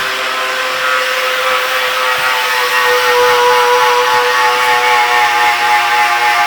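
Electric power tool running steadily at work on a car's oil pan, its whine wavering slightly in pitch as the load changes.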